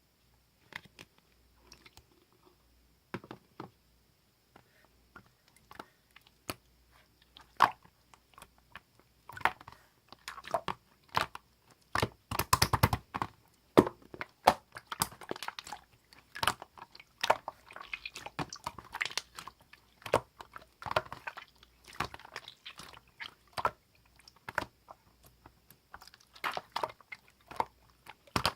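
Clear slime being squeezed and pressed by hand, making irregular wet clicks, pops and crackles. The clicks are sparse at first and come thick and louder from about ten seconds in.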